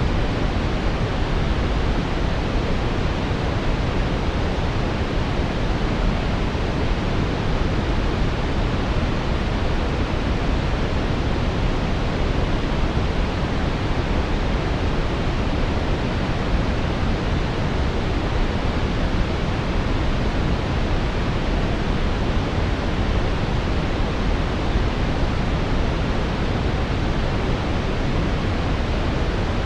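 Synthetic brown noise: a steady, deep, even hiss, strongest in the bass and fading toward the treble, with no changes or breaks.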